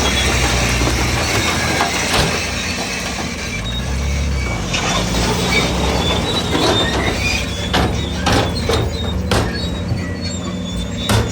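Crawler bulldozer's diesel engine running steadily, with squealing from its steel tracks and several sharp clanks in the second half.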